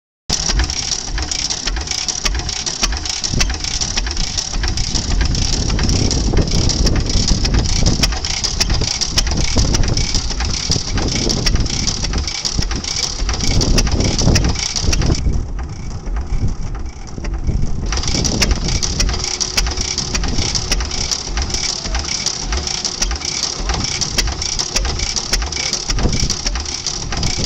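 10 HP McCormick Deering stationary gas engine running, with a steady train of exhaust pulses and a dense, continuous mechanical clatter. The high clatter drops away briefly about two-thirds of the way in.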